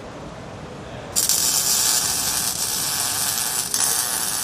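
MIG welder's arc striking about a second in, then crackling and hissing steadily as a weld bead is laid.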